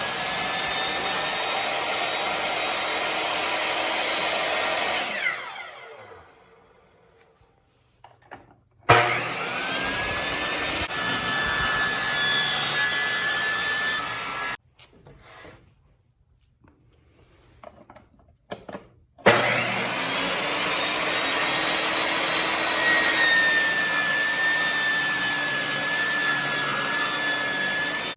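Ryobi 10-inch table saw running at full speed, then switched off and winding down with a falling whine. It is started twice more with a sharp start each time. In the later runs a wavering high tone suggests the blade cutting wood, and each of these runs cuts off suddenly.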